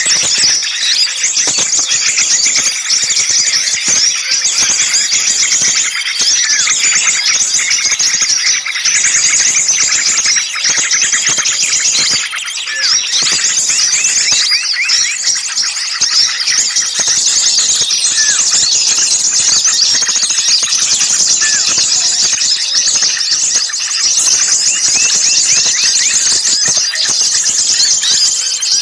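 A dense, noisy chorus of many small songbirds chirping and trilling over one another without pause, high-pitched and agitated: a mixed-species bird-lure call track of the kind played to draw small birds in.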